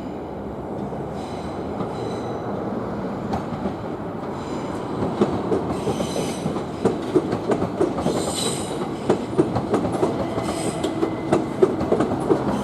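Two coupled Southern Class 377 Electrostar electric multiple units running in, growing louder as they pass. The wheels click over rail joints and points more and more densely from about halfway through, with several short bouts of high-pitched wheel squeal.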